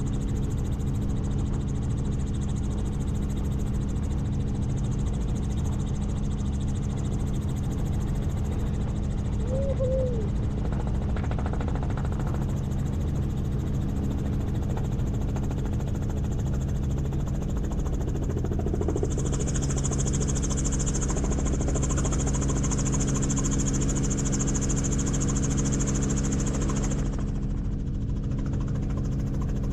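Helicopter in flight: the steady drone of the rotor and engine with rushing wind. A higher hiss joins about two-thirds of the way through and drops away near the end.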